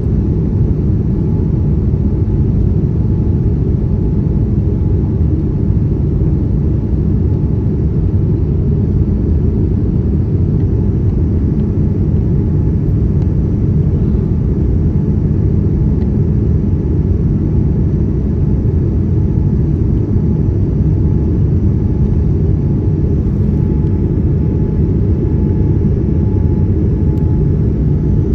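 Steady low rumble of a jet airliner's engines and airflow heard inside the passenger cabin, with a faint steady hum above it.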